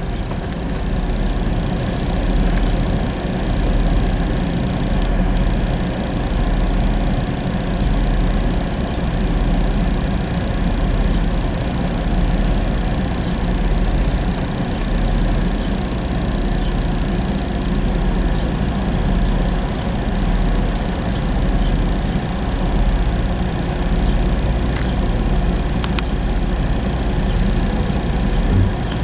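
Freight train rolling past at close range: a loud, steady rumble that swells and eases every couple of seconds.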